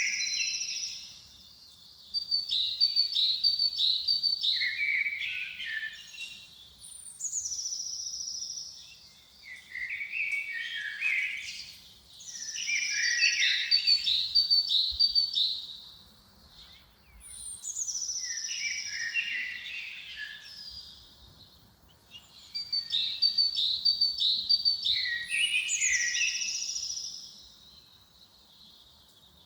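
A songbird singing the same short song over and over, roughly every five seconds: a high thin note followed by a quick run of notes stepping down in pitch. A faint low rumble lies underneath.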